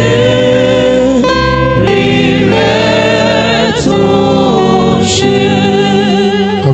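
Gospel worship music: a choir singing with instrumental backing that includes guitar.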